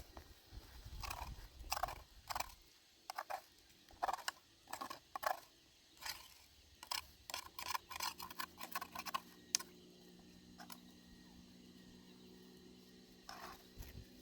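Irregular sharp knocks and clicks, hard objects being handled, for about the first ten seconds. A faint steady hum comes in about eight seconds in and runs on under them.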